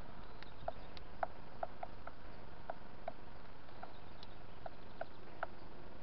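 Short, sharp ticks at an irregular pace, two or three a second, from a bird at a cornmeal feeding tray, over a steady background hiss.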